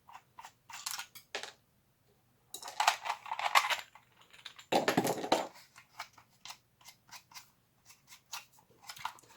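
Hard plastic parts being handled and fitted together: a string of small clicks and taps, with two longer scraping, rustling stretches about three and five seconds in.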